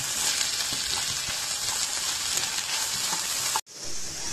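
Diced potatoes and onions sizzling as they fry in oil in a non-stick pan, with a spatula stirring through them and making faint clicks. The sound cuts out for an instant near the end, then the sizzling carries on a little softer.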